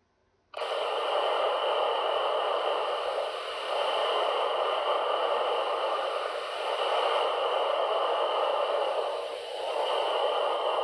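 NASA space-audio recording of plasmaspheric hiss, natural electromagnetic waves in Earth's plasmasphere converted to sound. A steady static-like hiss starts about half a second in and swells and fades gently every few seconds.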